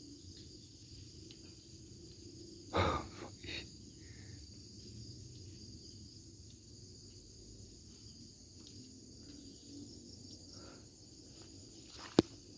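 Steady high-pitched insect chirring, with a short rustling thud about three seconds in and a single sharp crack near the end.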